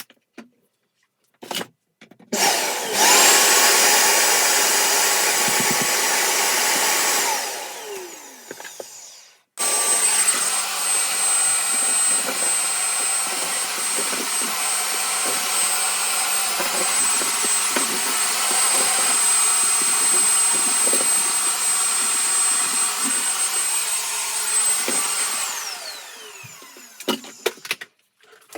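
Vacuum cleaner, rebuilt from two machines, switched on after a couple of clicks. It runs for about five seconds and winds down with a falling whine, then is switched on again and runs for about fifteen seconds with a steady high whine before winding down.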